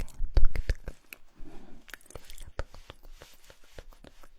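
Close-miked mouth sounds: wet lip and tongue clicks, loud and rapid in the first second, then sparser, with a soft whispered murmur.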